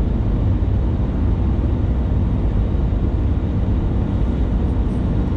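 Steady low rumble of a moving motor vehicle.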